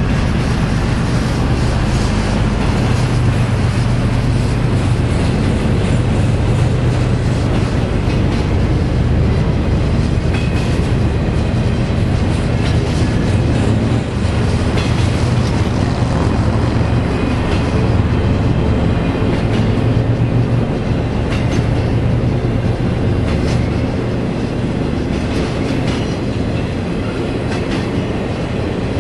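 Freight train of empty intermodal flatcars rolling past on a climbing grade: a continuous low rumble with repeated wheel clicks over the rail joints. A steady low hum under it eases somewhat about two-thirds of the way through.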